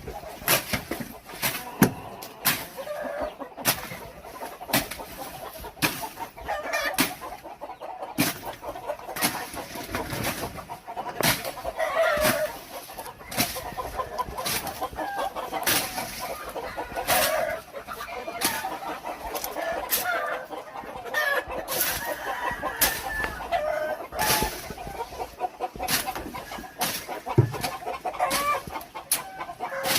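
Chickens clucking, with a rooster crowing now and then, over a run of sharp clicks or strikes coming about once or twice a second.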